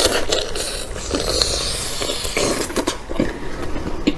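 A person eating noisily, with loud, exaggerated mouth and breathing noises.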